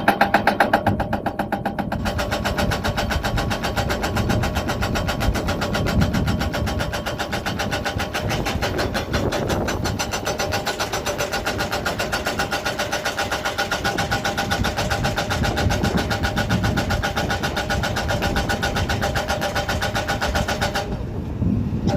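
Hydraulic breaker on a Hyundai 220LC-9 excavator hammering with rapid, even blows over the excavator's running engine. The hammering stops about 21 seconds in, leaving the engine running.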